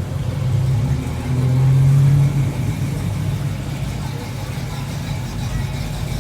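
A car engine running, louder for about a second near the start and then steadier and lower.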